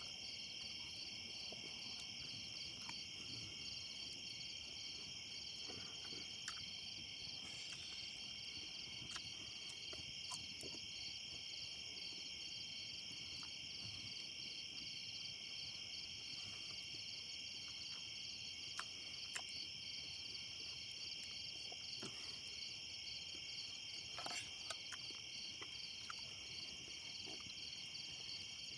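A steady chorus of night insects, high-pitched and evenly pulsing, with a few faint scattered clicks.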